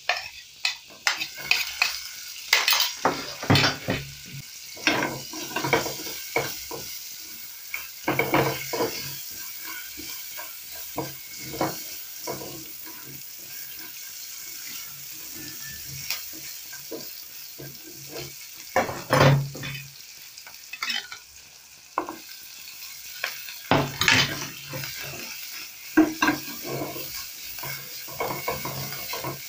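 Sliced onions dropped into hot oil and butter in a frying pan, sizzling, then stirred with a silicone spatula. A steady high sizzle runs under irregular scrapes and taps of the spatula against the pan, with louder bursts of stirring now and then.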